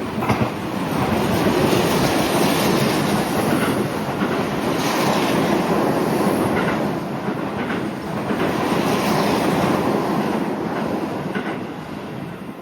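A train running through the station without stopping. A dense rush of wheels and air builds over the first second or two and holds for about ten seconds, with scattered clicks, then fades near the end.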